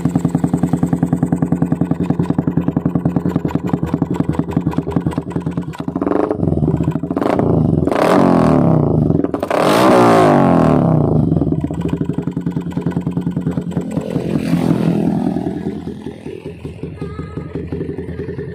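Motorcycle engine running through an XR-37 aftermarket exhaust with twin silencers: a steady idle, then several throttle revs that rise and fall in pitch from about six to eleven seconds in, and one more short rev later, before it drops back to idle.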